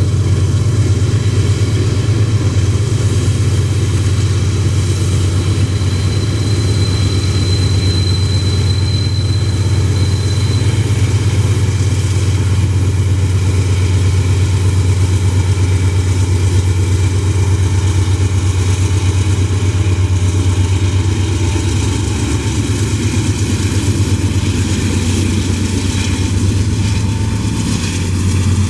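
Diesel locomotives of a loaded iron ore train running steadily under load, with a deep, constant engine drone. A thin high whine comes in for a few seconds about a quarter of the way through.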